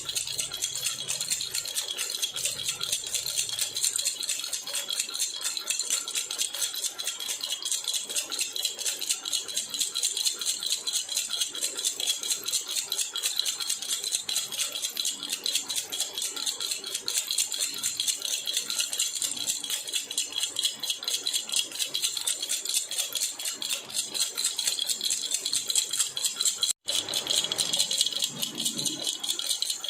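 Baby rattle (jhunjhuna) shaken rapidly and continuously, a dense, bright jingling clatter, with a momentary break about 27 seconds in.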